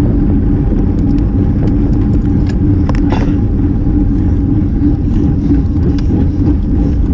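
Steady wind rush and tyre noise on a GoPro riding with a road bike race group at speed, with a constant low hum and a few faint clicks.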